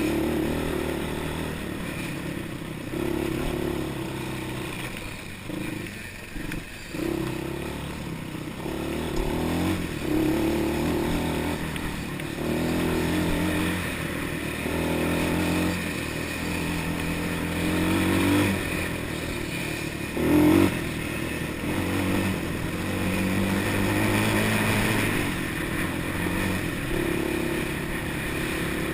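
Small off-road engine running and revving up and down, its pitch rising and falling repeatedly, with one sharp knock about twenty seconds in.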